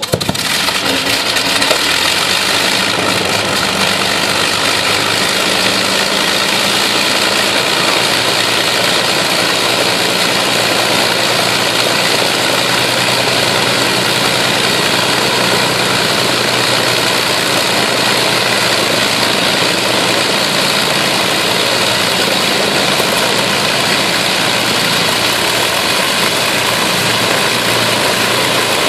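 Avro Lancaster's Merlin V12 piston engines running steadily, with a deep even drone under loud propeller and exhaust noise. The sound cuts in suddenly at the start.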